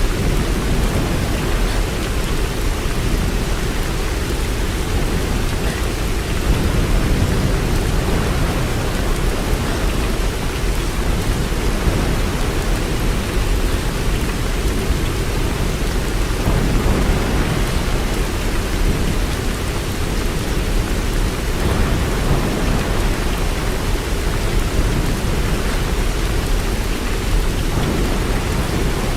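Steady, continuous rain, with most of its weight in a deep low rumble.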